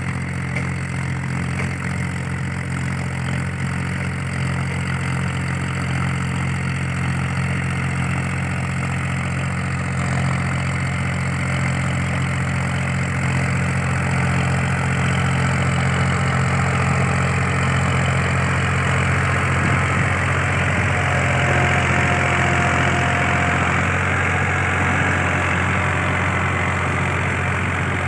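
Powertrac 434 tractor's three-cylinder diesel engine running steadily at a constant pitch, with a rushing noise that grows louder about halfway through.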